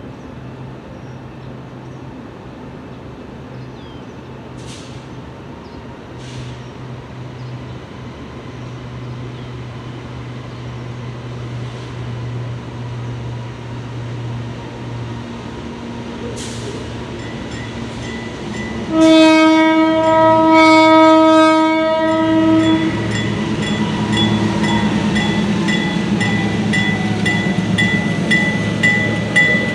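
Diesel freight locomotives approaching, their engine hum growing steadily louder. About two-thirds of the way in, the horn sounds one long blast of about four seconds. After it the engines are louder still, with a steady high tone and regular wheel clicks over the rail joints near the end.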